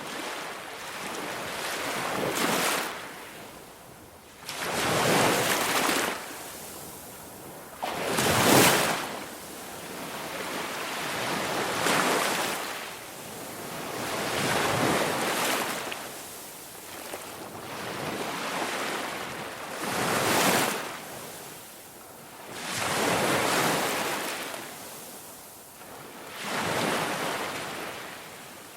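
Ocean waves breaking and washing back, one swell every three to four seconds, the loudest about a third of the way in.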